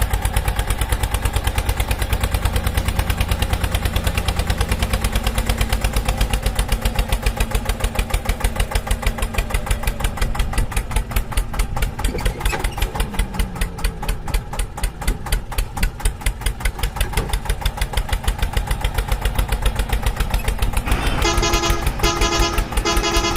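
Tractor engine running with a fast, even chugging beat, about six or seven pulses a second. Near the end a pitched, horn-like tone starts sounding on and off over it.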